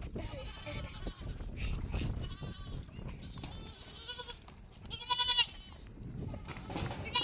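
Goats bleating, about five separate quavering calls, some overlapping, the loudest about five seconds in.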